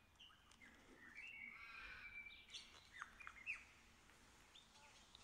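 Faint birdsong: a few short chirps and brief trills, mostly between about one and three and a half seconds in.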